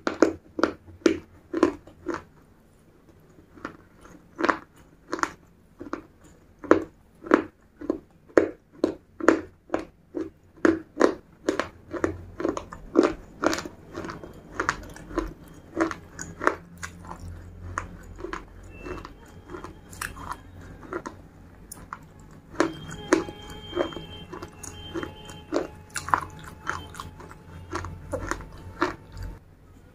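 Close-miked chewing and crunching of a mouthful of baked clay, about two chews a second, with the microphone held at the lips. The chews grow softer in the second half.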